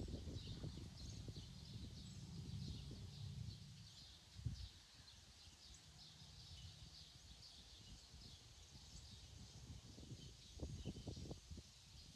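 Birds chirping faintly and steadily, over a low rumble with soft thuds that is stronger in the first few seconds and again about ten seconds in.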